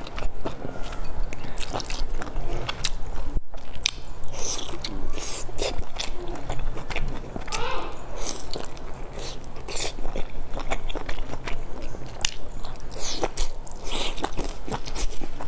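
A person biting into and chewing large soft dumplings close to the microphone, with many short wet mouth clicks.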